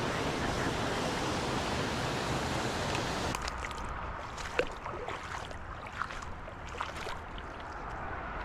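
Rushing creek water, a dense steady hiss that drops away abruptly about three seconds in, leaving quieter flowing water with small scattered splashes and clicks.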